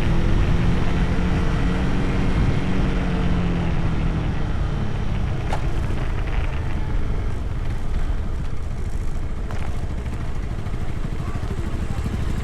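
Motorcycle engine running on the road. Its note rises slightly and then falls over the first few seconds, after which steady road and wind noise takes over.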